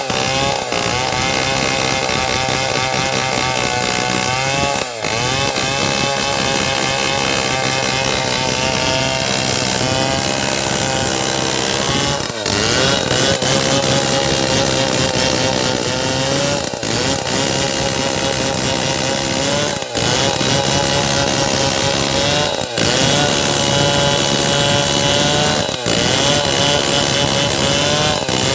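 Two-stroke chainsaw running at high revs while cutting wood. Its pitch sags and recovers under load, and the sound breaks off briefly every few seconds.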